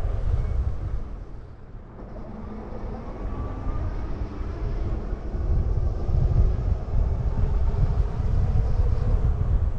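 Wind rumbling and buffeting on the microphone while riding, with a faint wavering whine over it. It dips about two seconds in, then builds back up.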